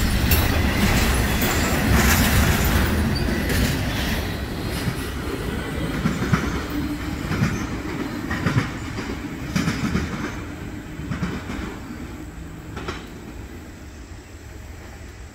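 Tail end of a double-stack intermodal freight train rolling away: steel wheels clacking over the rails in scattered clicks over a rumble, fading steadily as the last cars recede.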